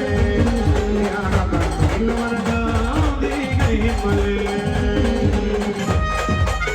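Brass band playing an instrumental passage: long held wind-instrument notes carrying the melody over steady drumming and shaken percussion.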